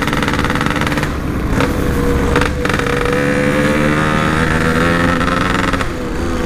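Yamaha RX-King two-stroke single-cylinder motorcycle engine running under way through its exhaust at a steady pace, with brief changes in the note about one and two and a half seconds in.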